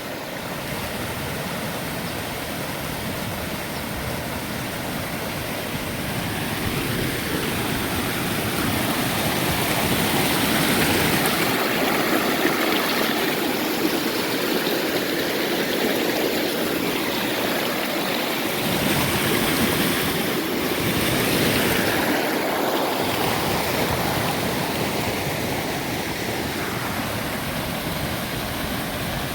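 Mountain creek running fast, a steady rushing wash of water over rocks that swells a little louder in the middle.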